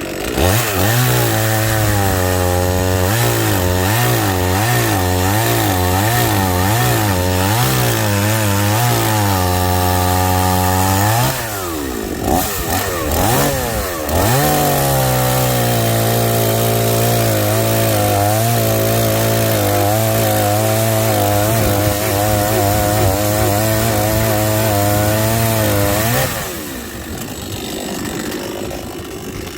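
Chainsaw running under load, cutting through logs, its pitch wavering as the chain bites into the wood. A little past ten seconds in the engine drops off, then revs back up and cuts again, and near the end the engine sound falls away.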